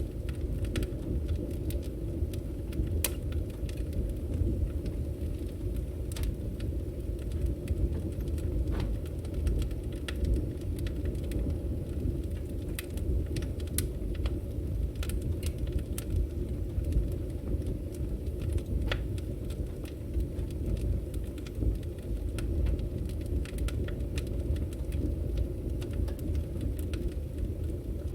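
Firewood burning: a steady low rumble of flames with irregular sharp crackles and pops from the logs.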